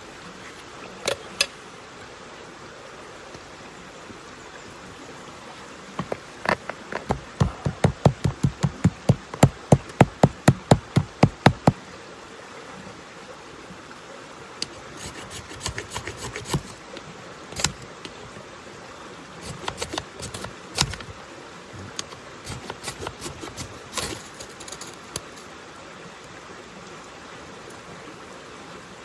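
A run of about twenty hard knocks, about three a second, lasting some six seconds, then scattered lighter clicks and cracks, over a steady background hiss.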